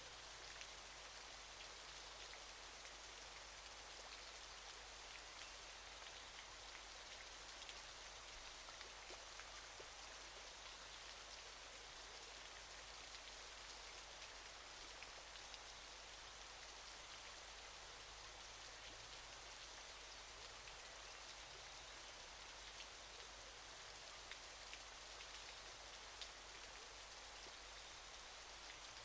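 Faint, steady hiss of falling water from a waterfall, with many small splashes pattering through it.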